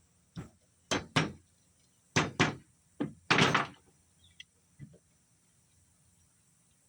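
A run of about seven hard knocks, several in quick pairs, then two light clicks: tapping a socket down to seat a snap ring in an HX35W turbocharger.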